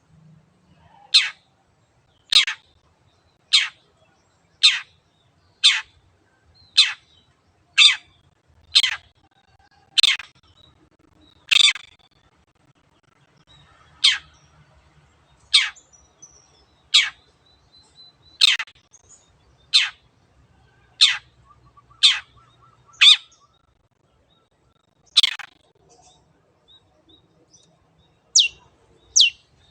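Long-tailed shrike (cendet) calling "teot teot": a long series of short, sharp notes, each falling steeply in pitch, about one a second with a couple of brief pauses.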